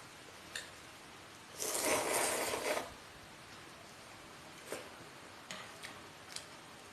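Close-miked eating sounds: one loud, noisy burst lasting about a second, starting about a second and a half in, and a few sharp clicks after it.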